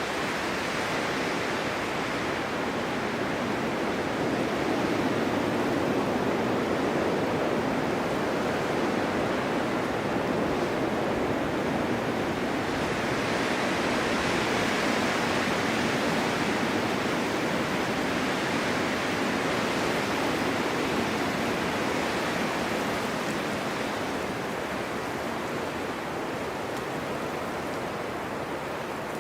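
Snowstorm wind blowing steadily, a continuous rushing noise that swells and eases in slow gusts.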